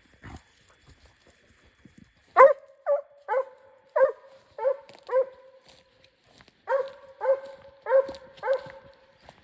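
A kopay scent hound baying in two runs of short, ringing cries, each dropping onto a held note. It is giving tongue while working a hare's trail.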